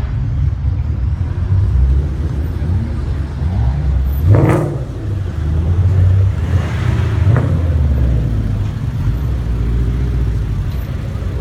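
Car engine being revved: a low, loud running sound with several rev blips whose pitch rises and falls, and one sharp, loud burst about four seconds in.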